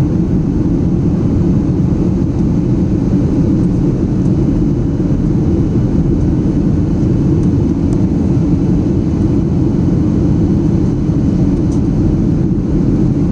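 Steady, even drone of a passenger airplane heard from inside the cabin in flight: engine and airflow noise with most of its weight in the low range.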